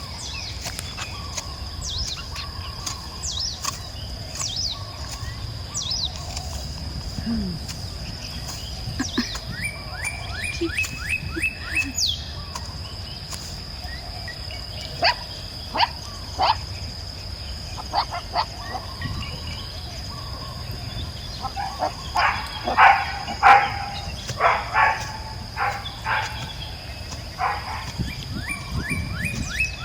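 Rural outdoor ambience: a steady high insect drone with birds chirping throughout, and a run of louder, short animal calls about two-thirds of the way in.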